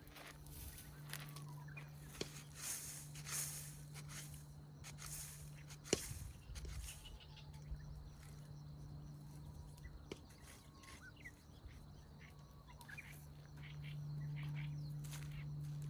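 Rustling and light knocks of hand work in the soil, with one sharper knock about six seconds in, over faint bird chirps and a steady low hum.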